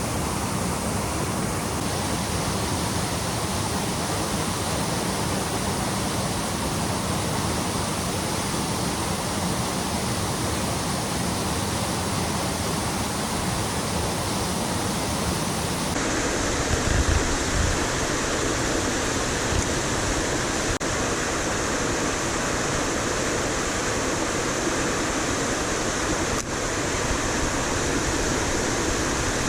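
Steady rushing of a mountain stream and waterfall, an even roar of falling water, its tone shifting abruptly about halfway through, with a brief low bump soon after.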